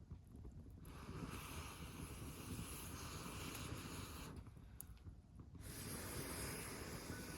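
Campfire burning: a steady hiss over a low rumble. The hiss drops away twice, briefly.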